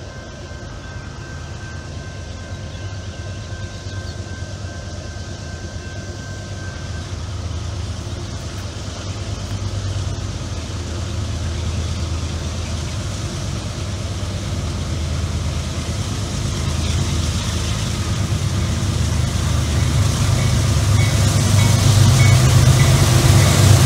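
Diesel locomotives of a heavy freight train approaching, their low engine rumble growing steadily louder as they near.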